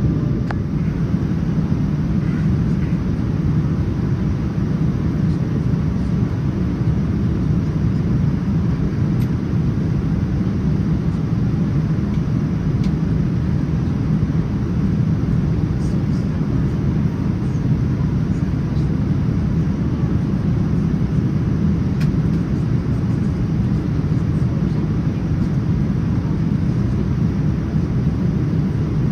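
Steady low rumble of cabin noise inside a Boeing 787-9 Dreamliner airliner, the jet engines and airflow blending into an even roar that does not change, with a few faint ticks.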